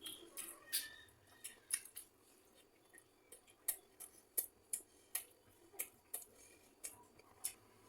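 Close-up eating sounds: a person chewing and smacking, giving an irregular string of sharp clicks, about one or two a second.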